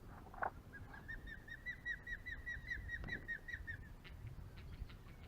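A bird calling: a short note, then a rapid, even series of short high chirping notes, about six a second for roughly three seconds, from the bird that is swooping at a freshly caught bass. The calls are faint.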